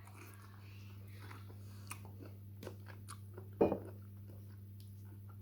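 Close-up mouth sounds of someone biting and chewing firm, sour Indian mango: small wet clicks and smacks, with one louder bite about three and a half seconds in. A steady low hum runs underneath.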